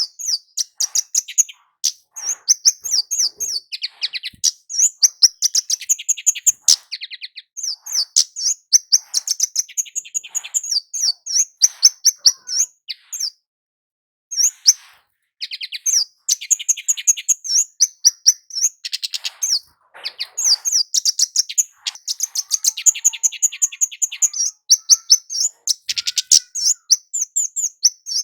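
Kemade (cit keres), a flowerpecker, calling in rapid runs of short, high, sharp chirps, broken by a pause of about a second midway.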